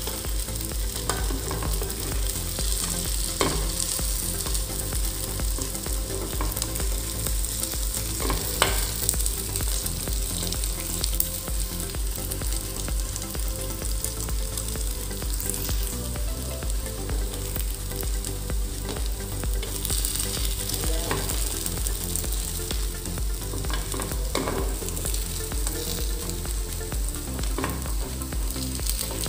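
Chicken kuzhiyappam sizzling steadily in hot oil in the wells of an unniyappam pan, with a few sharp clicks of a metal spoon against the pan as the fritters are turned over.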